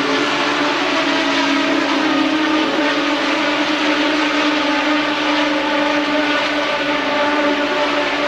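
Formula One race car engine running hard at a high, nearly steady pitch that wavers slightly.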